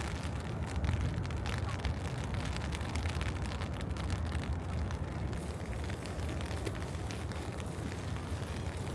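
Rainy city street ambience: a steady low rumble of traffic with rain pattering in many small ticks.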